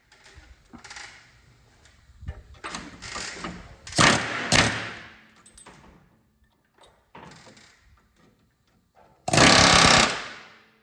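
Power tools working on steel motor-mount brackets: several short, separate bursts of grinding or hammering noise, the loudest a steady run of about a second near the end that fades away.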